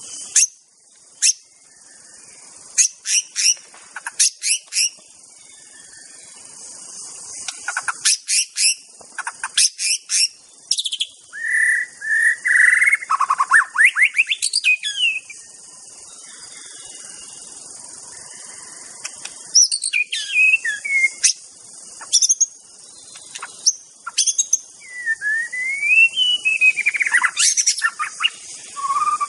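White-rumped shama singing: quick sharp chips and clicks mixed with loud whistled phrases that slide up and down in pitch, with short pauses between bursts. A steady high hiss runs underneath.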